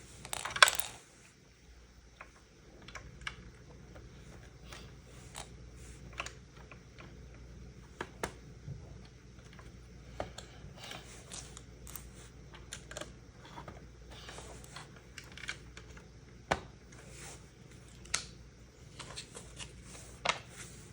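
Small plastic LEGO pieces being handled and clicked together during a build: scattered sharp clicks and taps, with a brief louder burst of clattering just under a second in.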